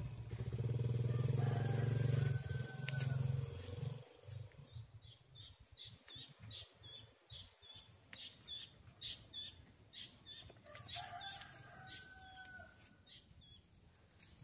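A low, steady drone for the first few seconds fades away, then a bird chirps over and over, about two or three short calls a second, with a few longer whistled notes.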